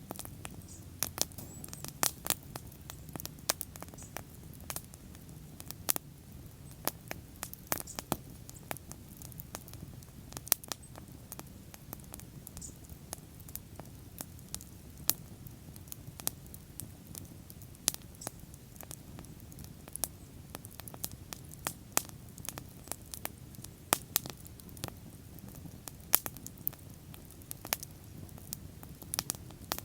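Bonfire crackling, with irregular sharp pops of burning wood over a low steady rumble of the flames.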